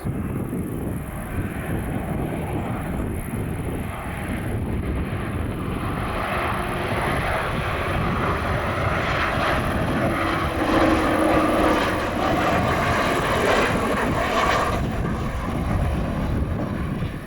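Airliner passing close by, its engine noise swelling over several seconds to a peak and then easing off.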